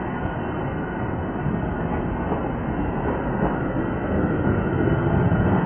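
Metra bilevel commuter coaches rolling past, a steady rumble of wheels on the rails that grows louder near the end as the diesel locomotive pushing at the rear of the train approaches.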